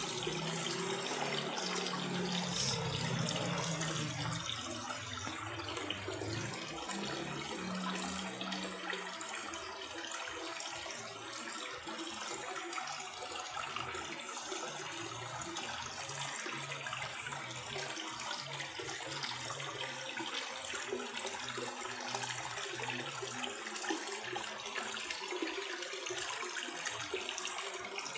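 Steady splashing and trickling of water in a home aquarium, as from the filter's return flow.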